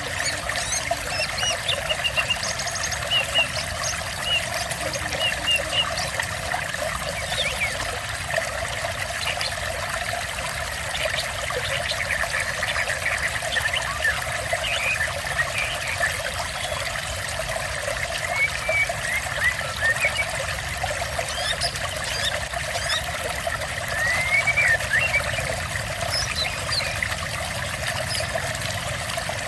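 Water trickling and pouring steadily, with short high bird chirps now and then.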